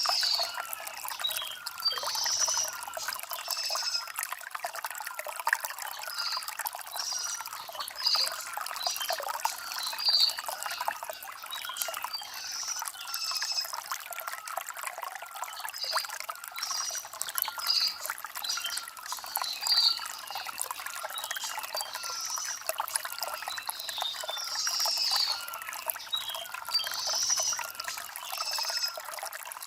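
Shallow stream trickling and gurgling over stones, steady throughout, with small birds chirping in short bursts every second or two.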